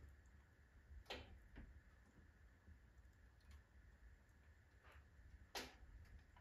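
Firewood burning in a wood stove: faint, sparse crackles and pops, about five in all, the loudest near the end, over a faint low rumble.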